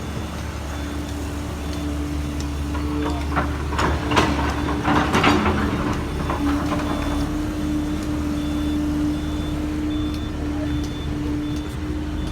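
Heavy diesel machine running steadily with a reversing alarm giving a regular high beep, and a burst of clattering metal knocks about four to five and a half seconds in.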